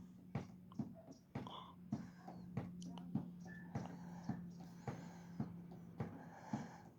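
Steady low hum with regular short knocks, about two a second, through it.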